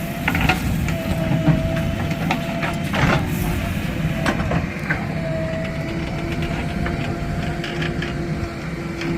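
JCB 3DX backhoe loader's diesel engine running steadily, with a steady whine that comes and goes and occasional sharp knocks and clanks.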